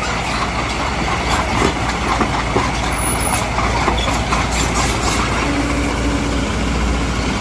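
Mitsubishi BD2G crawler bulldozer's diesel engine running steadily under load, with a deep rumble and irregular metallic clanks.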